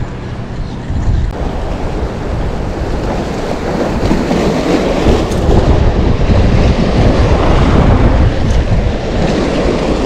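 Strong wind buffeting the microphone: a loud, gusting rumble that builds after the first second or so.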